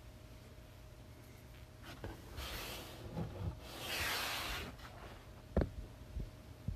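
Handling noise: two stretches of rustling, then three light knocks near the end, over a low steady hum.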